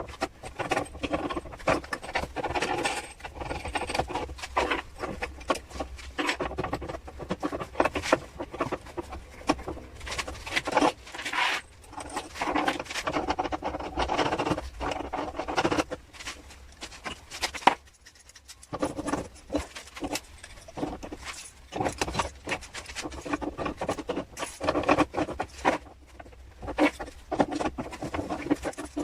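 Irregular clicking, tapping and scraping from small parts being handled and worked by hand, over a low steady hum, with a quieter pause about two-thirds of the way in.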